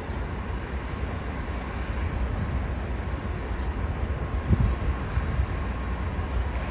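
COASTER commuter train's diesel locomotive running with a steady low rumble, with wind buffeting the microphone briefly about two-thirds of the way in.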